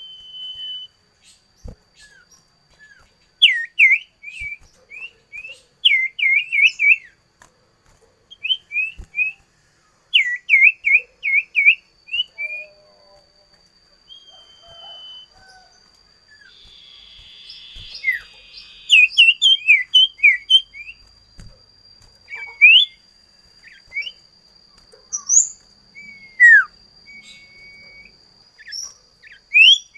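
A small songbird calling in quick runs of sharp chirps, mixed with short level whistles and a few longer falling notes. Under it runs a faint steady high-pitched whine.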